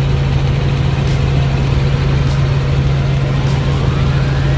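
Helicopter in cruising flight: a loud, steady drone with a strong low hum, and a faint rising whine over the last second and a half.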